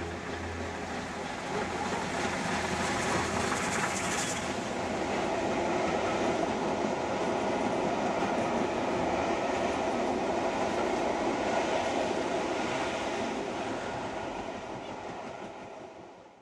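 Train passing on the rails, its wheels clattering over rail joints. The sound builds about a second and a half in, holds steady, then fades away near the end.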